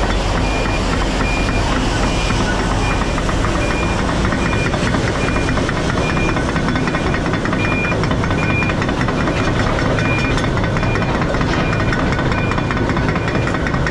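Semi-truck's diesel engine running with steady heavy rumble and road or cab noise. A faint high beep repeats a little under twice a second throughout.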